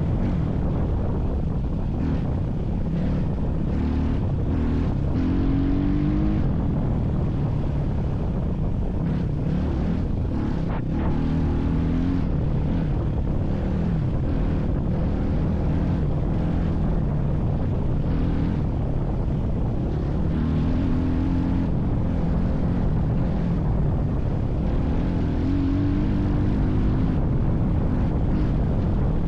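Vehicle engine running steadily, its pitch rising and falling again and again as it revs up and eases off.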